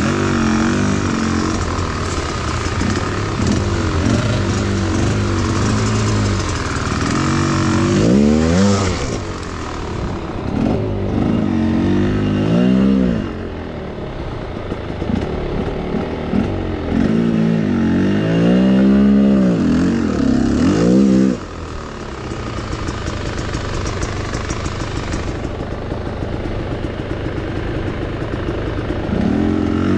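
Enduro motorcycle engines revving up and down repeatedly under load. The loudest rise and fall comes about two-thirds of the way through and cuts off suddenly.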